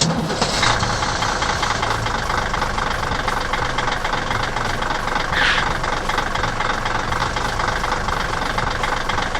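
Heavy vehicle's diesel engine running steadily, with a knocking idle, and a brief high squeal about halfway through.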